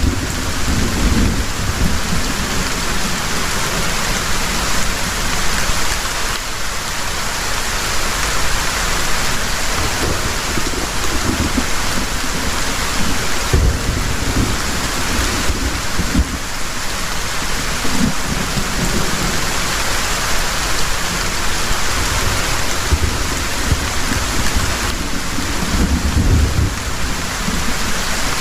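Heavy rain falling steadily as an even hiss, with low thunder rumbling in and out several times, strongest near the start and again near the end.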